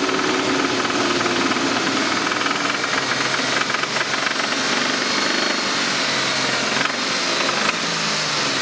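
BMW M52 straight-six engine running with a connecting-rod knock, the sign of a worn rod bearing.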